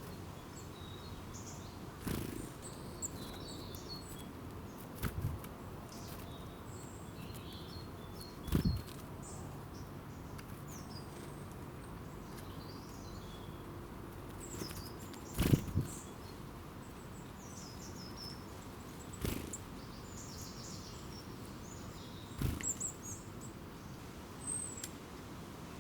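Wild birds calling with short, scattered high chirps over a steady background hiss. Several sudden sharp knocks cut in, the two loudest about a third and about two thirds of the way through.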